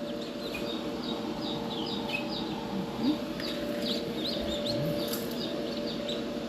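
Newly hatched peachicks peeping, many short high chirps several a second, over a steady low hum.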